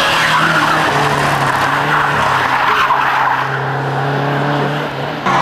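Rally car engine held at fairly steady high revs, with a hiss of tyres sliding. The sound dips and changes abruptly just before the end.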